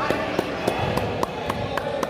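A quick run of sharp claps or knocks, about four a second, over steady crowd noise in a large hall.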